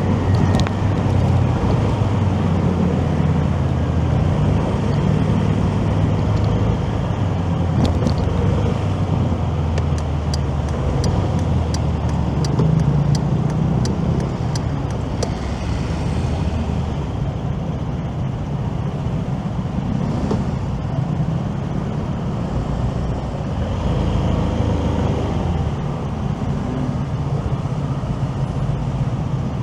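Motorcycle riding in city traffic: the engine runs under steady road and wind noise. Midway comes a run of light, evenly spaced ticks, about two a second for several seconds.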